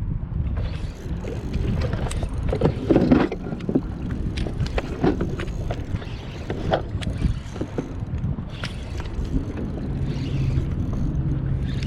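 Low rumble of wind and motion on the fishing kayak, with scattered knocks and splashes while a hooked fish is fought. A louder cluster of knocks comes about three seconds in, and a steady low hum near the end.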